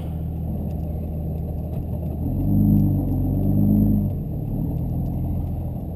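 Compound-turbocharged 5.9 Cummins inline-six diesel running on the road, heard from inside the cab; its drone swells louder for about two seconds in the middle, then settles back.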